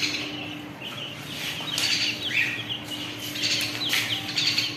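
Small caged birds chirping in many quick, short, falling calls, with a few sharp clicks from the wire cages being handled.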